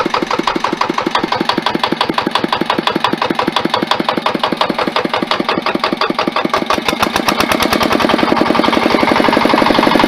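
Old Mitsubishi tiller diesel engine running with a steady, distinct firing beat, speeding up about seven seconds in.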